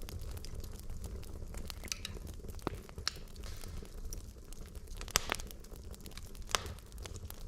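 Wood logs burning in a fireplace, with a steady low rush of flame and irregular sharp crackles and pops; the loudest pops come about five and six and a half seconds in.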